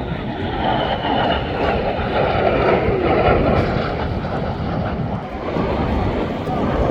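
Engine noise of a fixed-wing aircraft flying past: a broad rushing sound that swells about a second in and stays strong through the middle.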